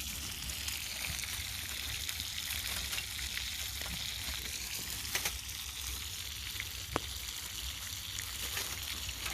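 Bacon-wrapped hamburgers frying and sizzling in a cast iron pan over a campfire, a steady hiss of fat cooking. A couple of sharp pops come a little past the halfway mark.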